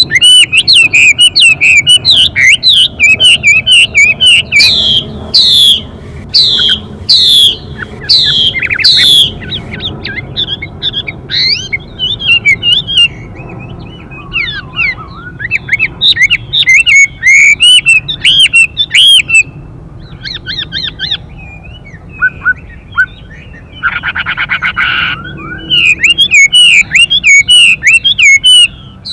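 Chinese hwamei singing loudly in a rapid, ever-changing stream of whistled notes that sweep up and down. About four-fifths of the way through comes a harsh buzz lasting about a second, the female's 'xùy' call that spurs the male to sing.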